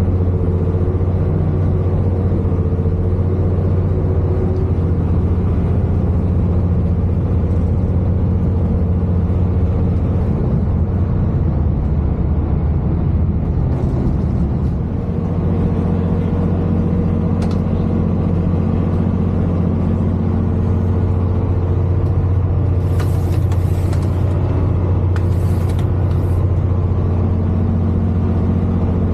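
Cabin sound of a Class 221 diesel-electric tilting train running: a steady drone and rumble from its underfloor diesel engine and the running gear. Two brief hisses come near the end.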